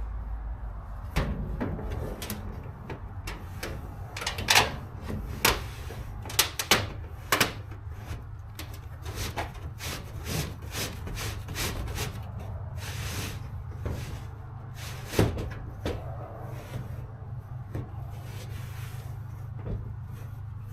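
Irregular knocks, clacks and thumps of hands-on building work, some sharp and loud, over a steady low rumble.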